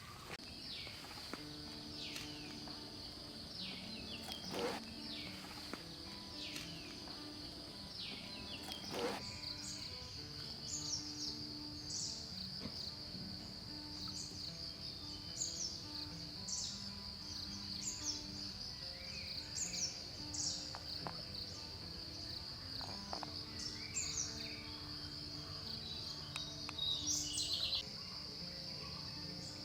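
A steady high-pitched insect drone with birds calling over it: short, high, downward-sweeping calls repeat every second or two, with a few longer falling calls near the start. Soft background music sits faintly underneath.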